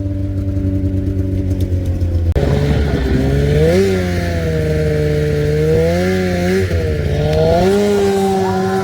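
Snowmobile engine running, first steady at idle, then after an abrupt change a couple of seconds in, revving up and dropping back several times before holding a steady speed.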